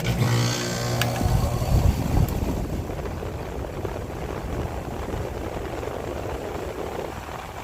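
A 2.5-ton Evcon air-conditioning condenser starting up once power is back: the compressor kicks on with a low hum as the condenser fan motor spins up with a rising whine, settling into a steady rush of fan air.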